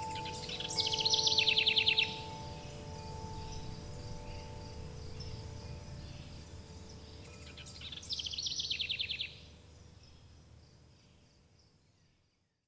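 A songbird sings two rapid trilled phrases about seven seconds apart, each falling in steps, over a steady cricket chirr. Wind chimes ring out faintly at first. The whole track fades out near the end.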